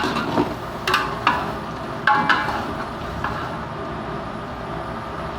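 Metal ladle knocking and scraping against a cooking pot about five times in the first two and a half seconds while chicken gizzards are stir-fried, each knock ringing briefly, over a steady frying hiss.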